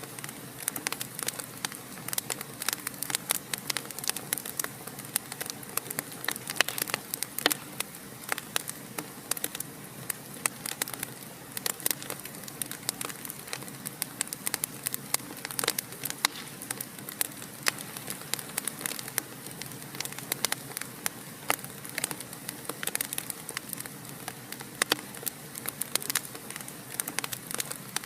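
Wood fire in a fireplace crackling steadily, with many irregular sharp pops and snaps over a soft hiss.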